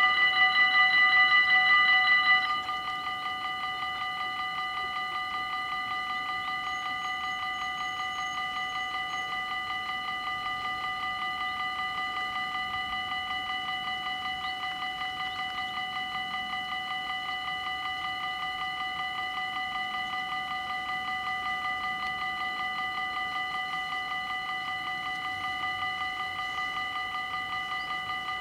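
Dutch automatic level-crossing bells ringing rapidly and continuously. About two and a half seconds in they drop to a quieter level, the usual step down on a Dutch crossing once the barriers are down.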